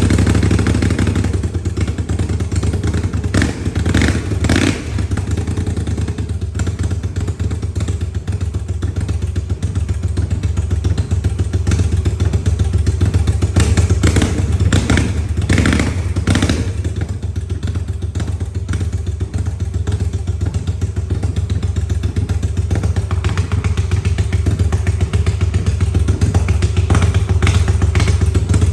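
Yamaha TDM 850's parallel-twin engine running loud with no exhaust mufflers or catalyst fitted, essentially open pipes. It idles with a few brief rises in revs.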